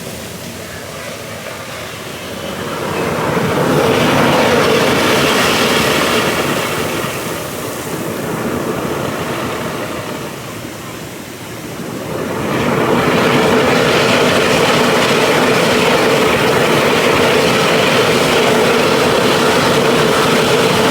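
Artificial geyser erupting: a jet of water rushing and spraying loudly. It swells a few seconds in, eases off, then surges again about halfway through and holds before stopping abruptly.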